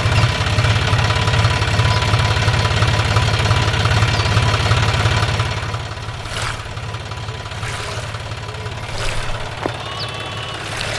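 Small engine running steadily with rapid, even pulses; it gets somewhat quieter about six seconds in.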